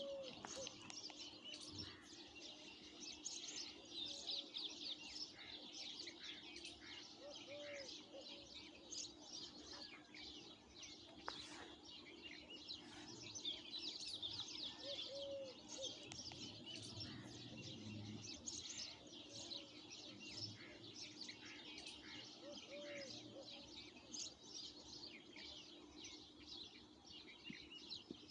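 A chorus of small birds chirping and twittering continuously, with a lower, short call repeating every few seconds over a faint steady hum.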